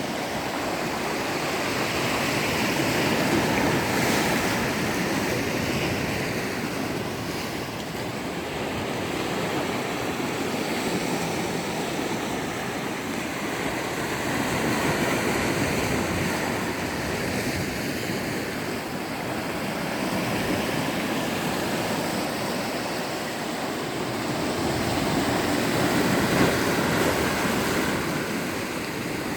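Sea waves washing onto a shore, the noise swelling and easing in slow surges every several seconds.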